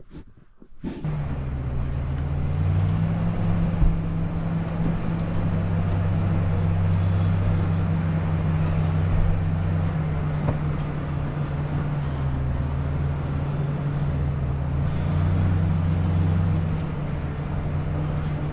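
Off-road 4x4's engine running steadily at low revs while crawling up a rock obstacle. It comes in about a second in, and its note shifts slightly a few times.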